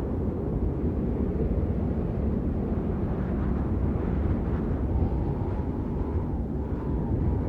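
Steady rain heard as a deep, even rumble of noise, with no single drops standing out.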